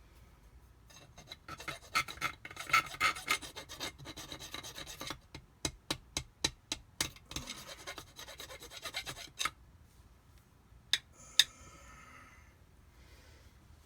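Hand file rasping on a metal jet-pump part: a quick run of strokes, then about eight slower, separate strokes. Two sharp clicks follow near the end.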